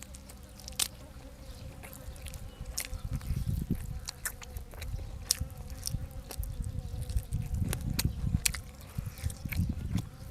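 Close-miked chewing and mouth smacking of someone eating, with irregular wet rumbling chews and sharp clicking smacks that get busier after about three seconds. A faint steady hum sits underneath.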